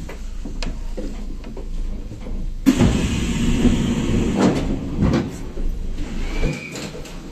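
A Kintetsu express train's sliding passenger doors working at a station stop: a sudden rush of noise about a third of the way in, with a few knocks, over the low rumble of the stopped train.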